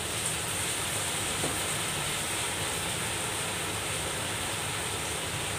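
Chicken pieces frying in a pot, a steady sizzle with soy sauce freshly poured over them.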